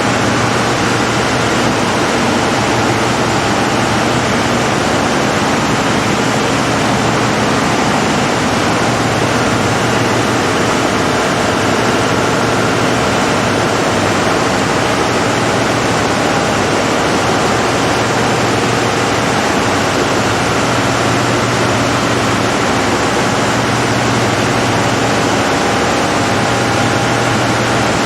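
Large diesel generator-set engine running steadily at constant speed: a loud, even mechanical noise with a faint steady hum that does not change.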